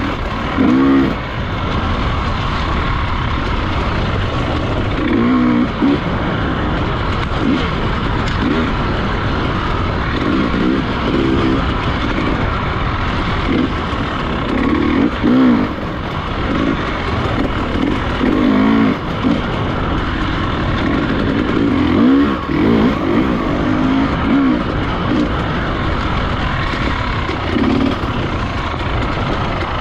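Enduro dirt bike engine running under load on rough ground, with short throttle blips every few seconds where the pitch rises and falls.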